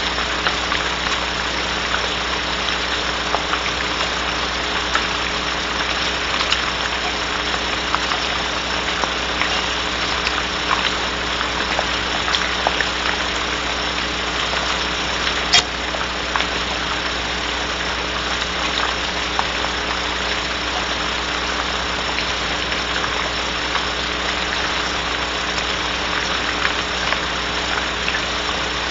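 Steady rain hiss on a barn owl nest box with a constant electrical hum underneath and scattered faint taps, one sharper tap about halfway through.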